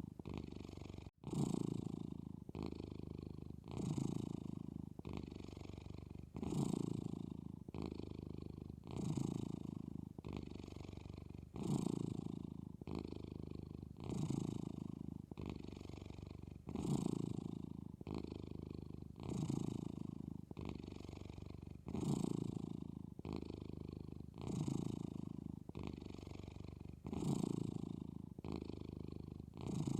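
A sleepy Maine Coon kitten purring steadily, the purr swelling louder about every two and a half seconds with each breath.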